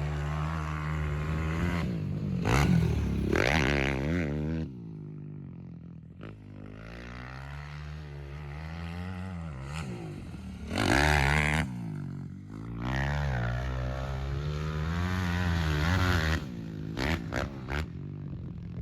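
Off-road motocross engines running laps on a sand track, revving up and falling back through the gears. The engines come loud and close twice: a few seconds in and again about eleven seconds in.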